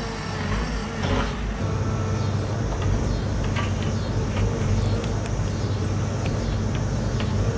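A diesel engine of heavy equipment running steadily, with scattered light clanks and knocks.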